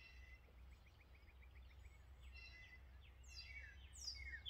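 Faint wild birdsong: a quick run of short chirps early on, a few scattered calls, and some falling whistled notes near the end, over a steady low rumble.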